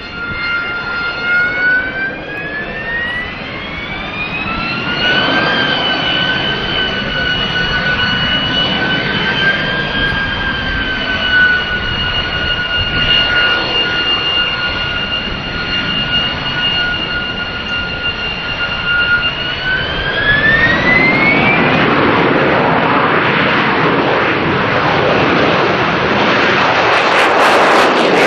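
AV-8B Harrier II's Rolls-Royce Pegasus turbofan whining at a steady pitch with a roar underneath. The whine rises a little a few seconds in, then climbs again about 20 seconds in as the engine spools up into a loud, full roar.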